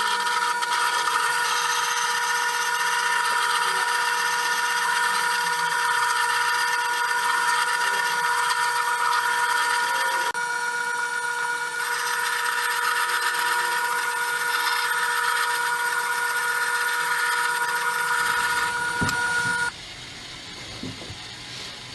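Grizzly sharpening machine running with a steady whine while a steel chisel is sharpened on it. The sound cuts off suddenly near the end.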